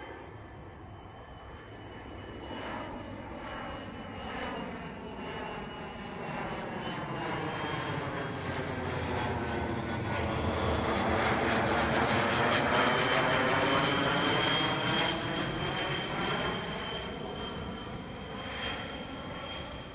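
ATTAS, DLR's VFW 614 twin-turbofan test jet, flying past on its ILS approach. The engine noise builds to a peak about two-thirds of the way through and then fades, with a steady high whine running throughout.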